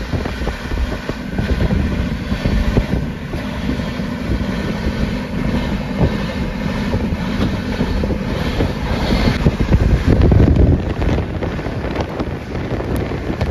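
Indian Railways passenger train running at speed, heard from on board: a loud, steady rumble of the running gear with a continuous rattle and clatter over it.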